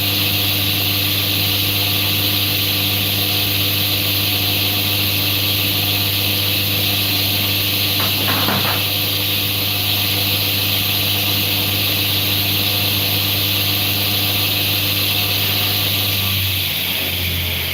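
An electric workshop machine runs steadily with a motor hum and an airy hiss. A short rasping sound comes a little past halfway, and near the end the pitch starts to drop as the machine winds down.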